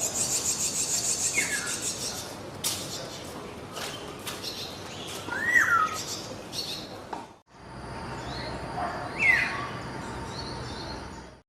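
Small songbirds chirping and twittering, with a fast high trill at the start and short whistled notes that sweep downward. The sound drops out briefly about seven seconds in and resumes with a faint steady high whine and low hum behind further chirps, then cuts off.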